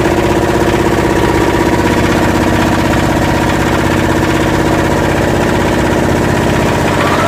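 Yanmar SB12 single-cylinder marine diesel running steadily after a fuel-line repair. Near the end the pitch starts to rise.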